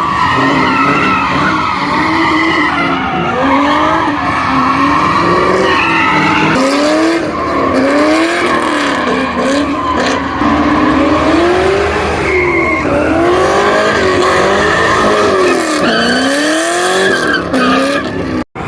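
A car drifting or doing donuts: the engine revs rise and fall over and over, about once a second, while the tyres squeal steadily. The sound cuts off abruptly near the end.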